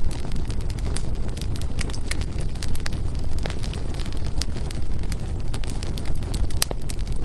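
Firewood burning in a fireplace, crackling with quick irregular snaps over a steady low rumble. One sharp pop stands out about six and a half seconds in.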